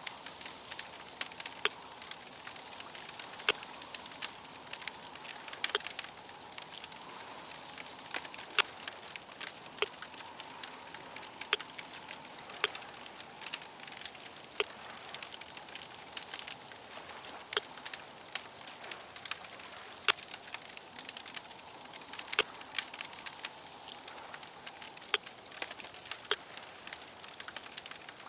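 Crackling fire: a steady hiss with many sharp, irregular pops and snaps.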